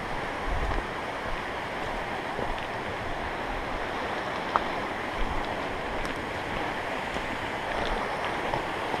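Steady rushing of a flowing creek, with a few soft low thumps of wind or handling on the microphone.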